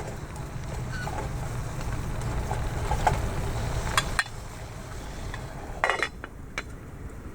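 Metal camp cookware clinking and knocking as a pot and its lid are handled: a few sharp clicks, then a louder cluster of ringing clinks near the end. A low rumble underneath drops away about four seconds in.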